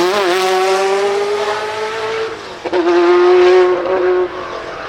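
Ferrari F40 LM's twin-turbo 2.9-litre V8 under hard acceleration, its pitch climbing steadily. There is a brief break with a sharp crack at an upshift about two and a half seconds in, then it pulls again and lifts off near the end.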